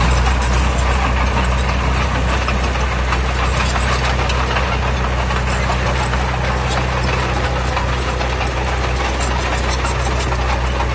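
Heavy diesel engine of earthmoving machinery running steadily at an even speed.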